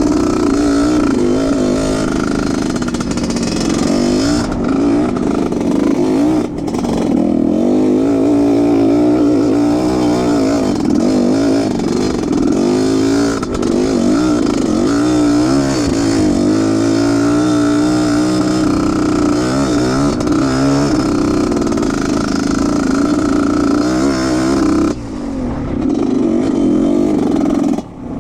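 Off-road trail motorcycle engine running under load and revving, its pitch rising and falling again and again as the throttle is worked. The level drops briefly a few seconds before the end, then comes back.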